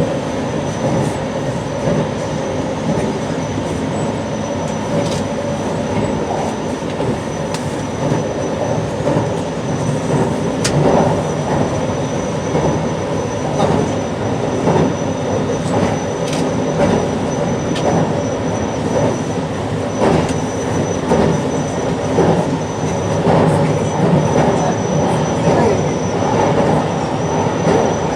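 JR Shikoku 8600 series electric train running at speed, heard from inside the leading car: a steady rumble of wheels on rail, with irregular clicks as the wheels pass over rail joints, more of them from about a third of the way in, and a thin, steady high whine.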